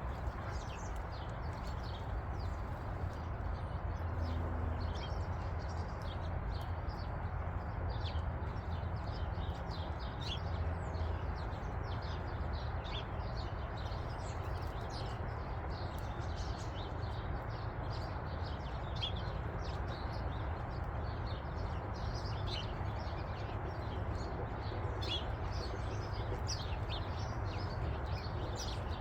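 Songbirds chirping: many short, high chirps scattered throughout, over a steady low background rumble.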